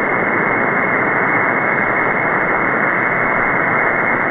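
Steady band-limited hiss of an open upper-sideband shortwave channel on the 20-metre amateur band, with no station transmitting: receiver static and band noise, muffled above a sharp cutoff set by the receiver's sideband filter. The noise is heavy, with band conditions poor from a major geomagnetic storm.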